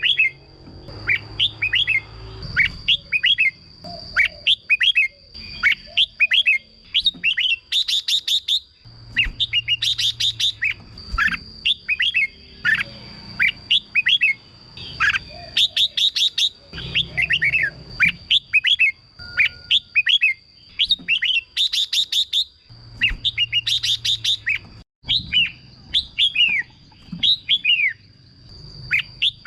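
Red-whiskered bulbul singing: phrase after phrase of quick, falling whistled notes, broken every few seconds by a burst of fast rattling notes, over a steady high-pitched whine.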